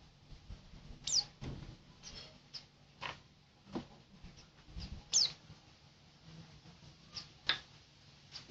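Small cage bird, a pleci (white-eye), giving short high chirps. Two louder calls, about a second in and again about five seconds in, slide down in pitch, with fainter brief chirps and soft taps between.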